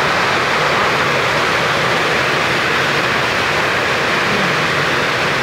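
Heavy tropical rain pouring down in a steady, loud hiss.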